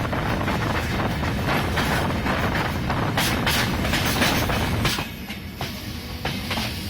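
Passenger train running on the rails: rumbling noise with repeated clacks of the wheels over rail joints. About five seconds in the rumble drops and the clacks stand out more sharply.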